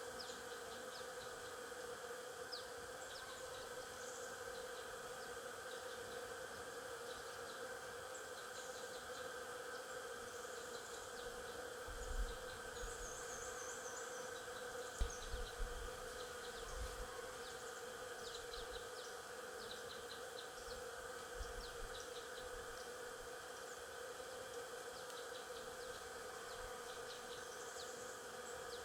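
Stingless bees buzzing in a steady, low-pitched drone, with faint high chirps and a few dull low thumps about halfway through.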